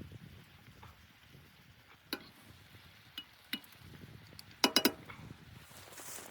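Light metallic clicks and clinks: a few scattered taps, then a quick run of three or four ringing clinks about two thirds of the way through.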